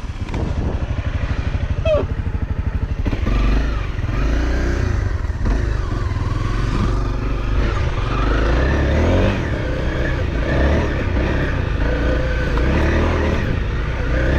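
Off-road motorcycle engine running at low speed and revving up and down unevenly, as on a slow climb over rough ground.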